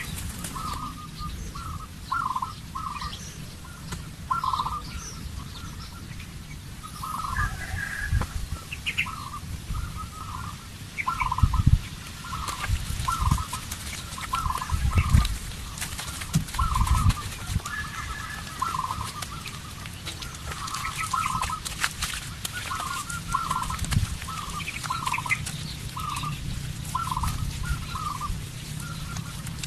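A bird calling over and over in short notes, with a few higher chirps from other birds. A few low thuds are louder than the calls.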